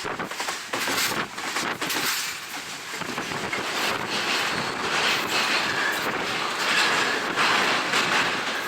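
Passenger train running, its wheels clattering over the rails, with wind rushing onto the microphone through an open window; the rush grows louder in the second half.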